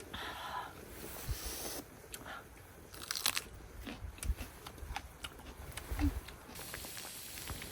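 Someone biting and chewing crunchy food close to the microphone, with scattered small clicks and knocks. A steady hiss starts near the end.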